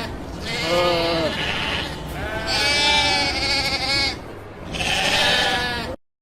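Sheep bleating: three long, wavering bleats one after another, following the tail of an earlier one, cut off abruptly near the end.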